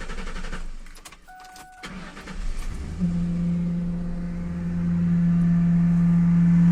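Ford 4.6 V8 being cranked by the starter and catching about three seconds in, at once giving a loud, steady, pitched hum from the air intake, like a trumpet or a horn. The mechanic traces this hum to a dirty valve connected at the intake; disconnecting it stops the noise. A short beep sounds about a second in.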